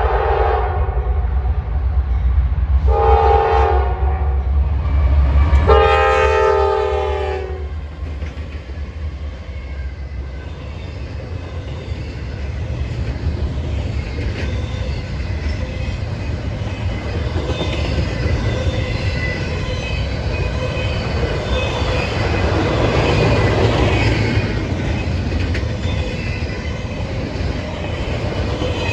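Train horn sounding a multi-note chord: the tail of one blast, then a short blast about three seconds in and a longer one about six seconds in, over a deep locomotive engine rumble. The train's cars then roll past with a steady rumble and clickety-clack of wheels on rail joints.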